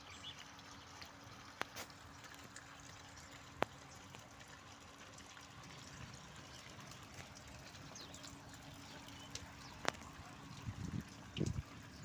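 Steady trickle of running water with faint bird chirps, broken by a few sharp clicks and some short, low rustling sounds near the end.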